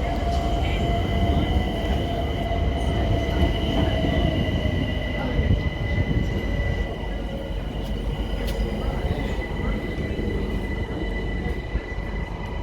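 Class 378 Electrostar electric multiple unit running at the platform: a steady rumble of wheels on rail under two high, steady whining tones, with a lower tone that sinks slightly over the first few seconds.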